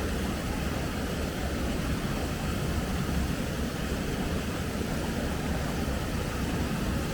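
Flowing river water: a steady, even rush, heaviest in the low end.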